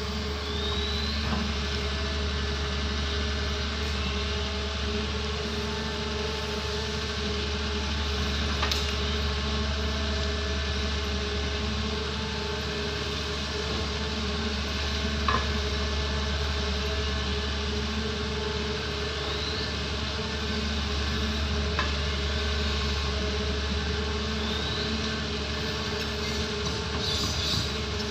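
Doosan excavator's diesel engine running steadily, with a few sharp knocks and some short high chirps over it.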